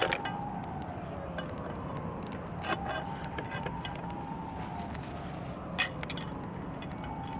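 A campfire crackling with scattered sharp pops. Behind it a siren wails, its pitch holding and then sliding slowly down, about once every three seconds.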